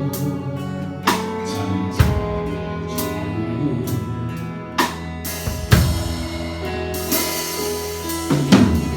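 Live church praise band playing a worship song: a drum kit strikes and crashes at intervals over sustained chords and bass, with a voice singing a held line about midway.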